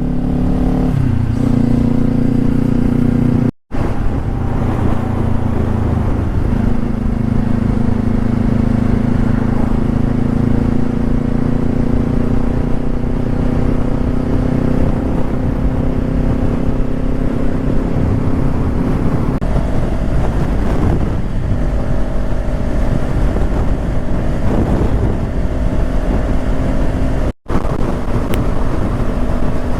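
Motorcycle engine running steadily while riding on the road, its note shifting a few times with speed. The sound cuts out for a split second twice.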